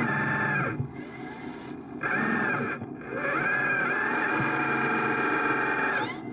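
Small electric motor of a radio-controlled construction model whining in three spells of different lengths, its pitch rising as each spell starts and dipping as it works.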